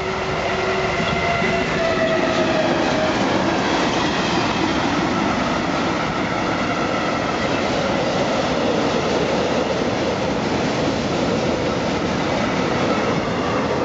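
Freight train passing at close range: an electric locomotive followed by a long string of open box wagons and tank wagons, the wheels running over the rails in a loud, steady noise. A few steady tones fade out in the first three seconds.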